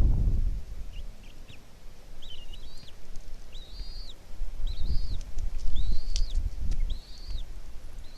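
Newly hatched bald eagle chick peeping: a series of thin, high, arching calls about once a second. Wind rumbles on the microphone underneath.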